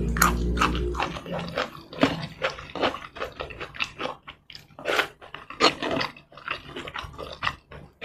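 Close-miked chewing and wet mouth smacking on a mouthful of rice and curry, a rapid, irregular run of short sticky smacks and clicks. A low hum sounds under the first second, then stops.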